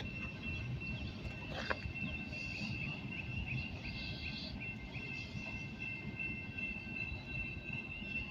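Freight train cars rolling past: a continuous low rumble, with a steady high-pitched tone running over it and one click about 1.7 s in.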